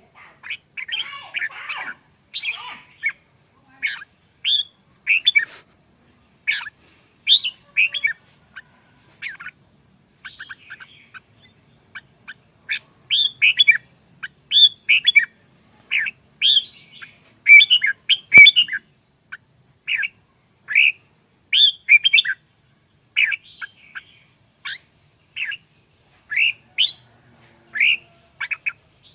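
Red-whiskered bulbul singing: short chirping phrases repeated roughly once or twice a second.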